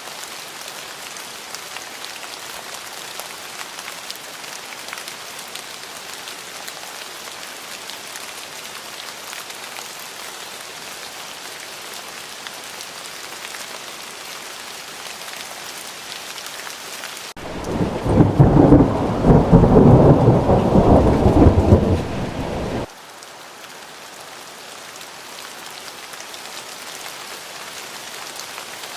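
Steady rain hissing, then about 17 seconds in a loud rumble of thunder that lasts about five seconds and starts and stops abruptly before the rain returns.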